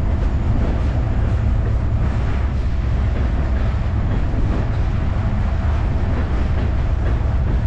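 Slow freight train rolling across a steel truss railroad bridge overhead: a steady, low rumble.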